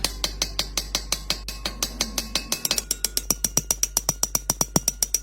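Rapid, evenly spaced metallic taps, about five a second, speeding up to about ten a second around halfway through, over a steady low hum.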